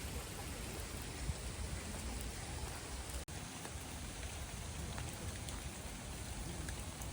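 Steady rain falling, an even hiss of drops that cuts out for an instant about three seconds in.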